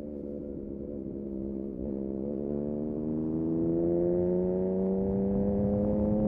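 Yamaha MT-09 SP's three-cylinder engine through a Dominator exhaust, holding a fairly steady note and then, from about two and a half seconds in, pulling up through the revs in one gear, its pitch rising smoothly and growing louder.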